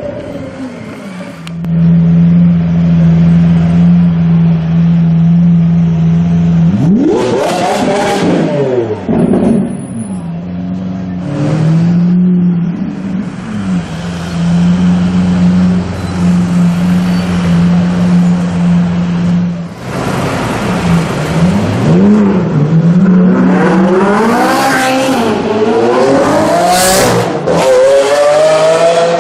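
Supercar engine revved in sharp blips that rise and fall in pitch, between stretches of steady running at held revs; a quick series of revs comes near the end.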